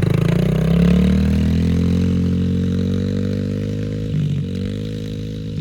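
Yamaha TT-R110's small single-cylinder four-stroke engine pulling away from idle, its note rising in the first second, then running steadily and slowly fading as the bike rides off, with a brief dip in pitch about four seconds in.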